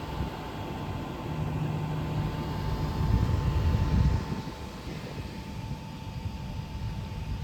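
Electric passenger train moving off from the platform: a low rumble with a steady whine that swells for about four seconds, then fades as the train draws away.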